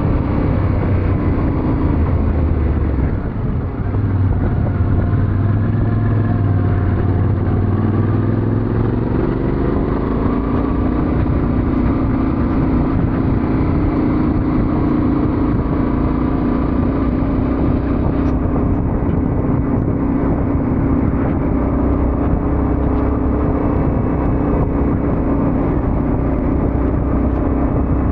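Yamaha Ténéré 700 parallel-twin engine running under way, with wind rushing past. Its pitch dips and then climbs over the first ten seconds or so, then holds steady.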